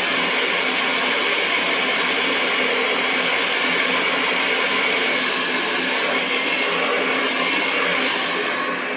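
Hair dryer running continuously: a steady rush of air over the motor's even hum. Near the end it turns slightly quieter and duller.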